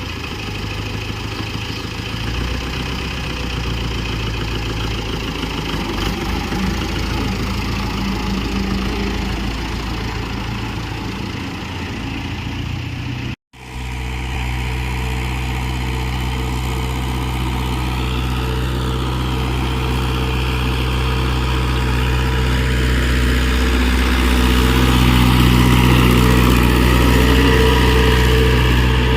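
Mahindra tractor's diesel engine running steadily. The sound drops out for a moment about halfway through, and the engine gets a little louder near the end.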